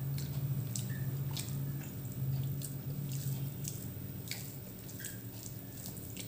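Close-up eating sounds: scattered wet clicks and smacks of chewing a mouthful of rice and curry, over a steady low hum.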